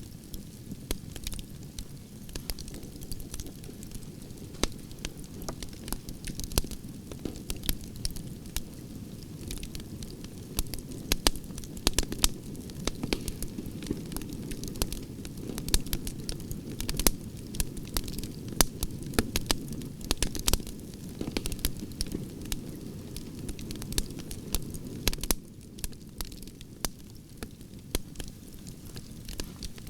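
Campfire of burning branches crackling, with frequent irregular sharp pops and snaps over a steady low rush of flame.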